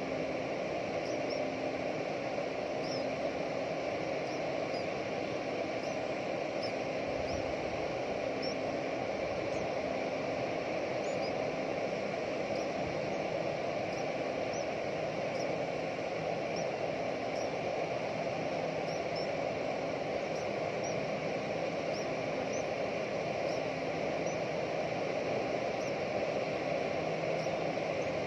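Steady outdoor background noise with faint, short, high-pitched chirps repeating about once a second, typical of small birds calling.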